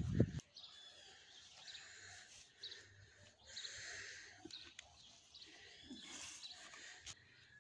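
Birds chirping faintly, short scattered calls, with a few light rustles and knocks.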